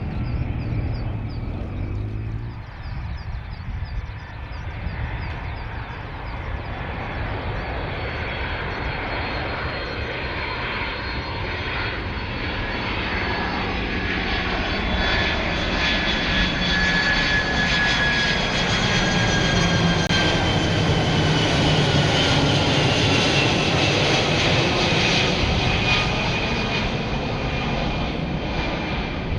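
Fixed-wing aircraft flying past. The engine sound builds to a peak about two-thirds of the way through, with a high whine that falls in pitch as it goes by.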